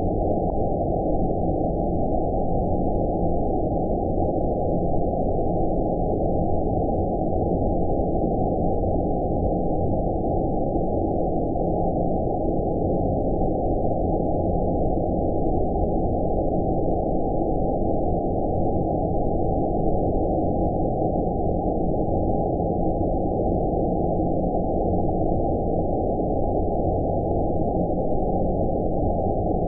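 Sleep-aid 'outer space' noise: a steady, deep, muffled hiss with nothing in the higher pitches, unchanging in level and character.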